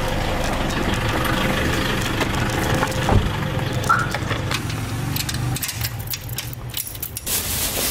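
Car engine idling with handling and movement noise, a single solid thump about three seconds in; the engine hum grows fainter in the last few seconds.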